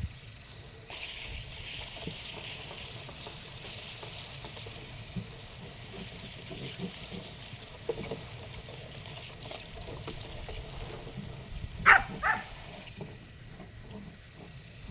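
Pigs grunting and snuffling, with two short, louder squeal-like calls close together near the end, over a steady hiss.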